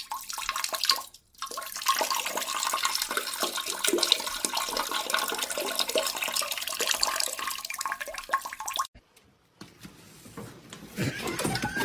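Water rushing and splashing, a dense hiss with many small splashes, that stops abruptly about nine seconds in. A fainter, different sound follows near the end.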